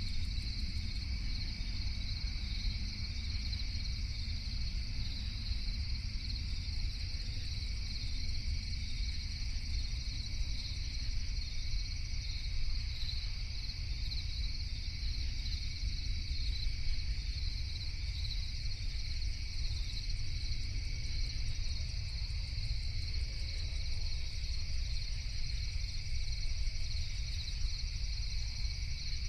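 Night chorus of crickets: a steady, unbroken high trilling, over a constant low rumble.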